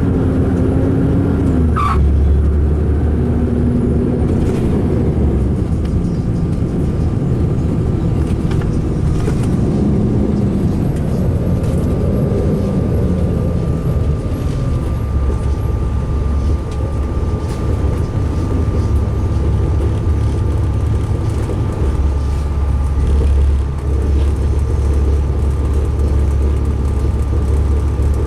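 2005 MCI D4500 highway coach under way, heard from inside: a loud, rumbly diesel and road drone, the engine's pitch rising and falling over the first half and then holding steady, with a thin steady whine joining it. The coach runs rough, as its owner describes it.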